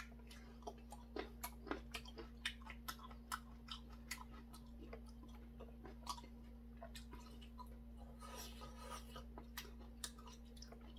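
Faint chewing with small irregular mouth clicks as a person eats a cooked garlic clove, over a steady low hum.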